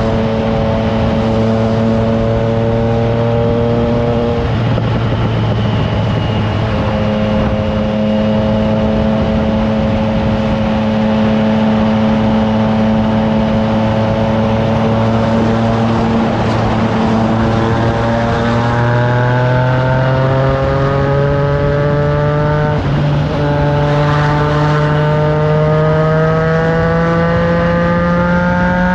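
Triumph Trident 660's three-cylinder engine through an aftermarket FireTong exhaust, riding at a steady pitch, easing off briefly a few seconds in. In the second half it pulls with a rising note, broken once by a short dip that sounds like a gear change. Wind noise runs underneath.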